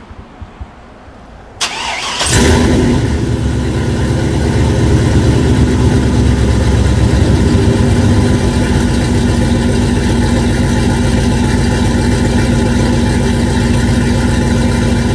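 Pickup truck engine cranked by the starter and catching about two seconds in, then running steadily at idle with a deep, loud rumble.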